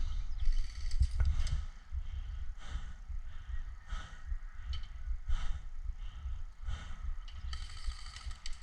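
A person breathing hard close to the microphone, about one breath every second and a half, over a steady low rumble on the microphone.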